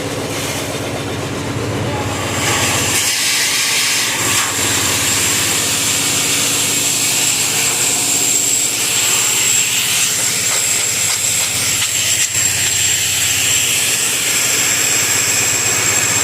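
Diesel compressor engine running, then about two and a half seconds in a loud steady rush of compressed air and water blasting out of the borewell takes over, a hiss with a thin high whistle in it.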